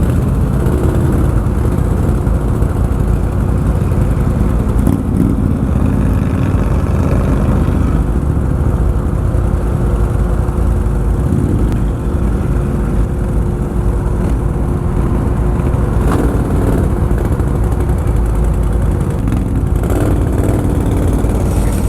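Can-Am Outlander 1000 ATV's V-twin engine running steadily, a continuous low drone with one even tone throughout.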